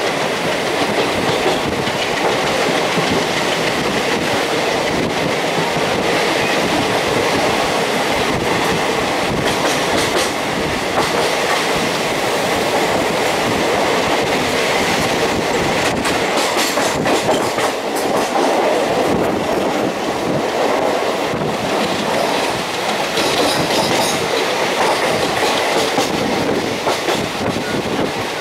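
Passenger train running at speed, heard from inside a carriage: a steady rumble and rush of the wheels and coaches, with the wheels clicking over rail joints now and then.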